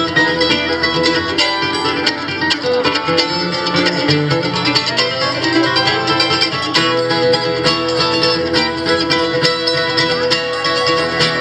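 Acoustic string band playing an instrumental break with fast, busy picking on guitar and other plucked strings, and no singing.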